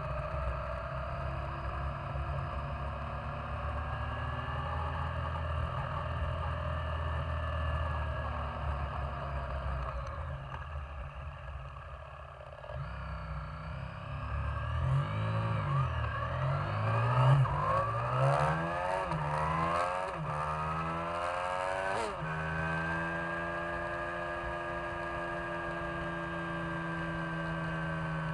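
Yamaha Virago 535's air-cooled V-twin engine under way. It runs steadily, eases off about ten seconds in, then accelerates through the gears with several rising sweeps in pitch. Near the end it settles into a steady cruise.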